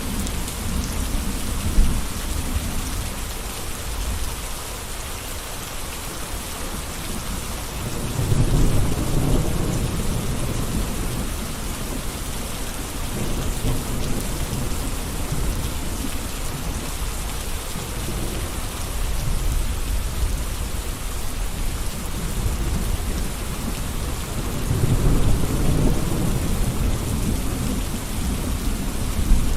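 Gentle rain falling, an even steady hiss, with two slow low rumbling swells, one about eight seconds in and another near the end.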